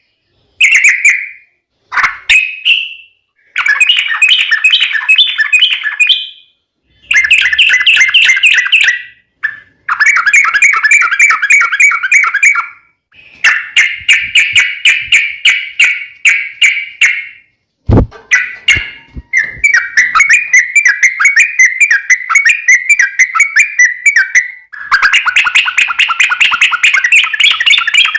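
Yellow-vented bulbul (trucuk) singing in long, rapid, rolling chattering phrases of fast repeated notes, each phrase lasting a few seconds with short pauses between them. There is one sharp click about eighteen seconds in.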